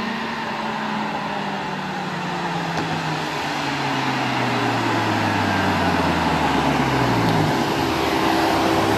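BMW M6 engine through an iPE valved exhaust, its note falling slowly in pitch as the revs drop, then settling on a steady lower note near the end.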